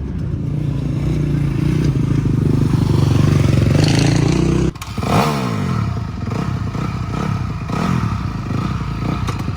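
Dirt bike engines running at high revs during a motocross race. The sound cuts off abruptly about halfway through, then a bike's engine note falls steeply in pitch as it goes by or backs off, with clattering mixed in.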